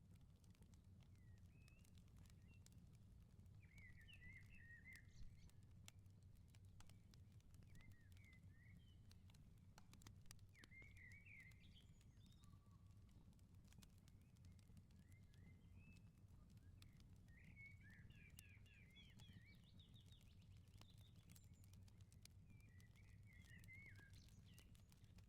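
Faint wood fire crackling in short, scattered snaps over a low steady rumble. Small songbirds chirp in brief bursts every few seconds.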